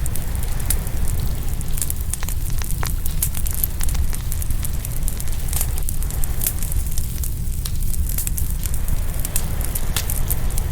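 Open wood fire crackling and popping with frequent sharp snaps, over a steady low rumble.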